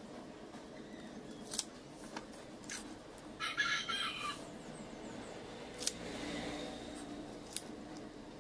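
A bird calls once, for about a second, starting about three and a half seconds in. Light clicks and taps come from a steel tape measure being handled against a steel flat bar.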